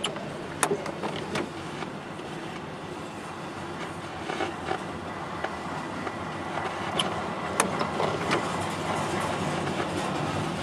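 Freight train cars rolling past on steel rails: a steady rolling noise broken by irregular sharp clicks and bangs from the wheels.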